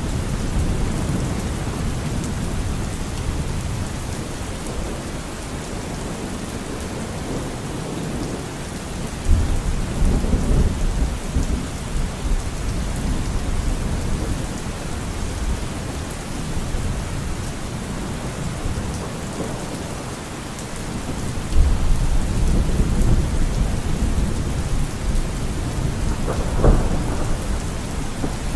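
Steady heavy rain falling, with rumbles of thunder rolling in about a third of the way through and again about three quarters through, and a sharp crack of thunder near the end.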